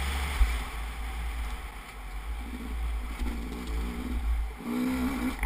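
Motorcycle engine running at low revs, its pitch rising and falling, over a steady low rumble.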